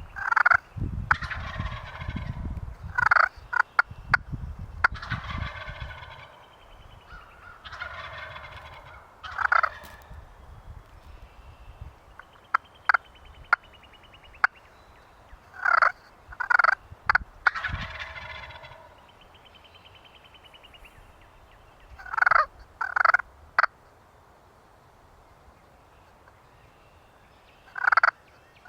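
Wild turkey gobblers gobbling repeatedly: rolling, rattling gobbles about a second long, mixed with sharp, loud short calls every few seconds.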